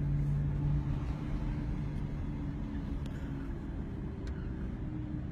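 Steady road and engine noise of a vehicle driving at freeway speed, a low drone with a steady hum, heard from inside the car. Two faint clicks come about three and four seconds in.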